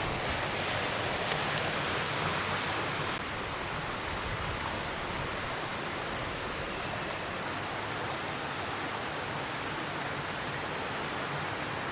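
Steady rush of a shallow mountain stream flowing over rocks. The sound shifts slightly about three seconds in, and a few faint high chirps come through around the middle.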